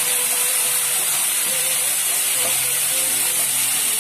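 Water just poured into a hot pan of sautéed onions and spice masala, sizzling and steaming with a loud, steady hiss.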